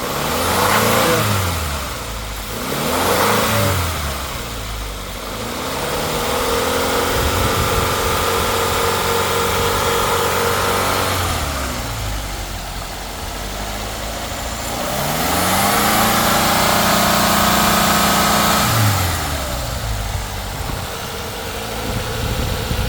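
Subaru FB25 2.5-litre flat-four engine running and being revved: two quick blips of the throttle, then two longer revs held for several seconds each, each falling back to idle.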